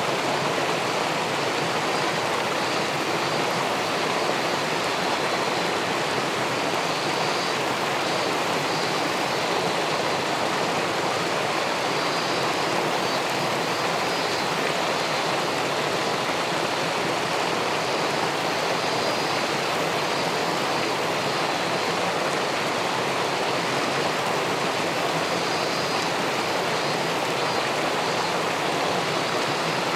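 River water spilling over a weir into the pool below: a steady, even rushing with no change.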